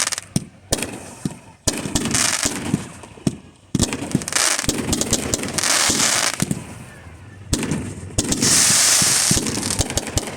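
A fireworks display going off: a string of sharp bangs with longer stretches of dense crackling, the loudest stretch about eight to nine and a half seconds in.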